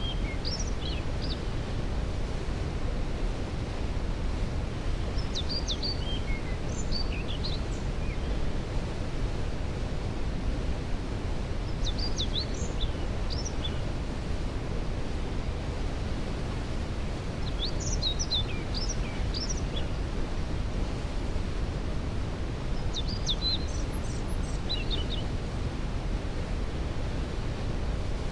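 Steady low rush of a waterfall, with a songbird singing a short phrase of quick high notes about every six seconds.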